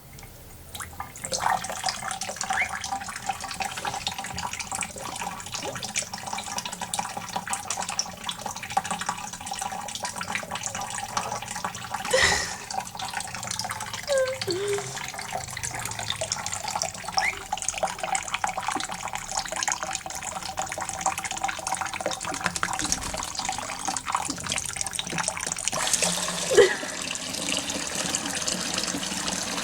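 Tap water running and splashing steadily as a quaker parrot bathes under it, starting about a second in. A few brief squeaky sounds come through the splashing, the loudest near the end.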